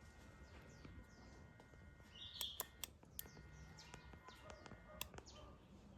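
Near silence, with faint bird chirps and a few light clicks.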